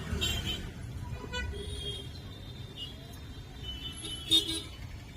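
Road traffic noise: a steady low rumble of passing vehicles, with faint chatter and a thin high tone held for a few seconds in the middle.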